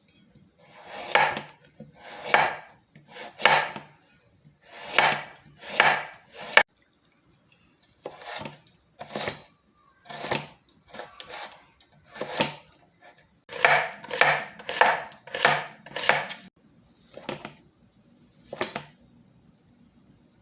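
Kitchen knife slicing vegetables on a cutting board: single drawn strokes, each swelling and then ending sharply, about twenty in all, in uneven groups with short pauses between.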